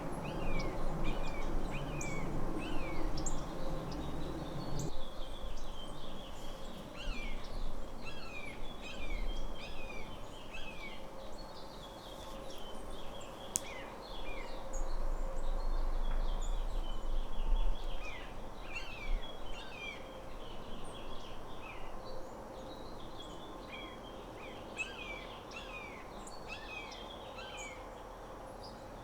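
Many small birds chirping, short quick down-slurred chirps overlapping from several birds throughout, busier in the first half. A low rumble runs underneath, heavier in the first few seconds.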